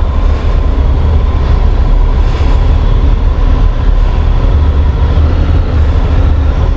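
Motorcycle on the move, likely a Honda NC750 DCT, its engine running under heavy wind rumble on the microphone.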